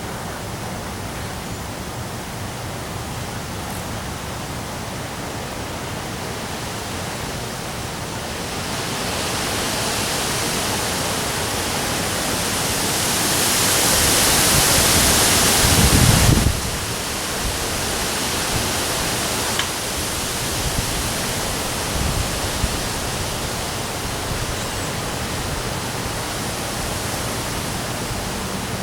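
Heavy rain and strong wind. A gust swells through the middle, with its loudest stretch buffeting the microphone with a low rumble, then cuts off suddenly; the steady rain goes on after it.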